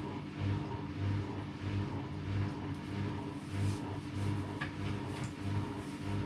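AEG Lavamat Turbo washer-dryer running through its wash programme: a steady motor hum with a low throb pulsing about twice a second, and a faint click near the end.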